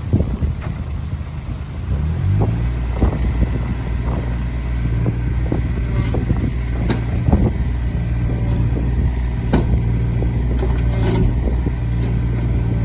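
Takeuchi TB016 mini excavator's diesel engine running, rising in speed about two seconds in and then holding steady, with scattered knocks and clanks from the machine.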